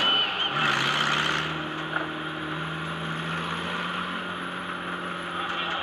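Democross car's engine running steadily, heard from inside the car. Its pitch steps up slightly a little under a second in and then holds. A short burst of hiss sounds about a second in.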